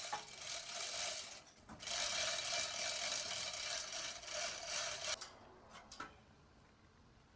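Abrasive power tool running against metal with an even hiss and a steady motor tone, in two runs; the second stops suddenly about five seconds in, followed by a few light clicks.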